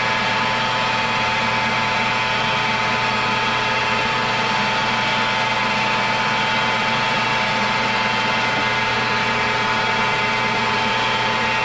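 Metal lathe running at a steady speed: an even machine hum made up of several steady tones.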